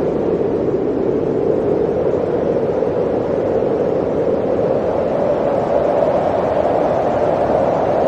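Blizzard wind blowing steadily, a continuous rushing howl that rises slightly in pitch around six seconds in.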